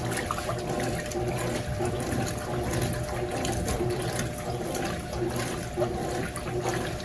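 Consul CWS12 top-loading washing machine agitating during its rinse, water sloshing in the tub in repeated strokes over the motor's low hum.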